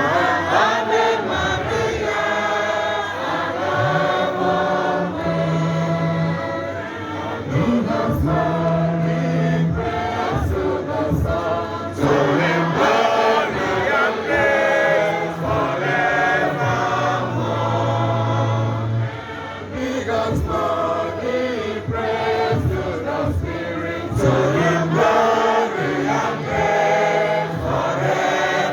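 A choir singing a hymn in English to music, with low bass notes held underneath, each lasting a second or two.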